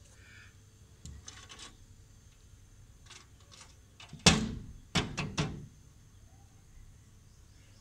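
Woodpecker knocking its bill against a glass mirror: a series of irregular sharp knocks, the loudest about four seconds in, followed by a quick run of three.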